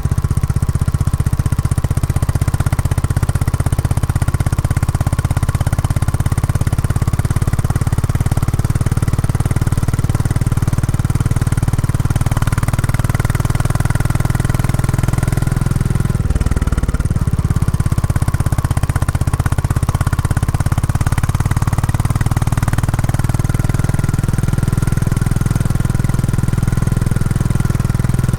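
Royal Enfield Classic 350's single-cylinder engine running through its stock exhaust while riding, a steady low exhaust note; the engine is being run in. The note dips briefly about two-thirds of the way through, then picks up again.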